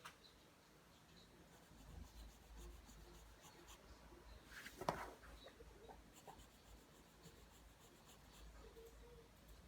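Pencil drawing lines on paper, faint scratching strokes, with one sharper tap about halfway through.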